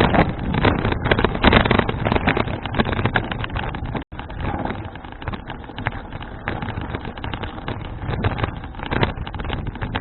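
Wind buffeting an action camera's microphone, a rough, gusting rush of noise, with a brief dropout about four seconds in.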